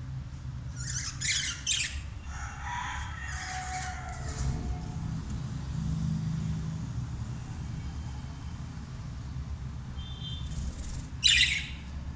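A group of budgerigars chirping in short bursts: a flurry about a second in, softer warbling calls over the next few seconds, and a loud sharp burst near the end, over a steady low rumble.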